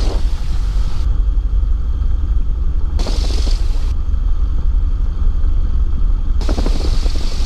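Cessna 172's engine idling, a steady low drone heard inside the cabin, with three short bursts of hiss near the start, about three seconds in, and near the end.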